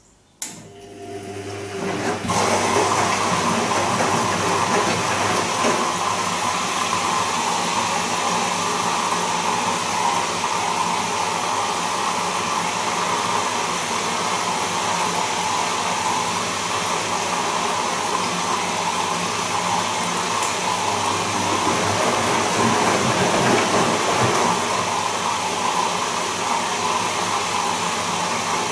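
Bosch Serie 2 Vario Perfect washing machine starting up from silence with a click. Within about two seconds it settles into a steady, loud run: a low motor hum under a rushing-water sound.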